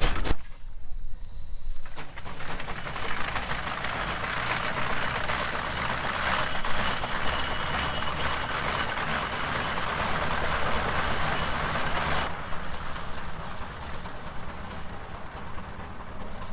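Rumely steam traction engine with a steady hiss of escaping steam that starts about two seconds in and cuts off sharply near the end, over a low steady rumble.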